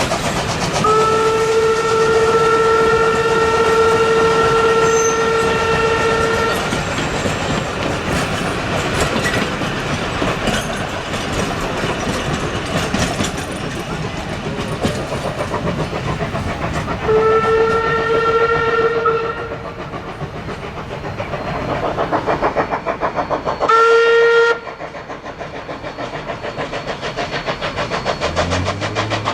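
Steam whistle of QR C17-class steam locomotive 974 sounding a long blast, a second shorter blast, and a brief third toot near the end, over the steady rhythmic running noise of the train.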